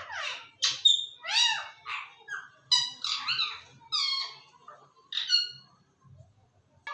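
A pet parrot giving a quick run of short, high-pitched squawks and chattering calls, about ten in five seconds, then falling quiet for a moment.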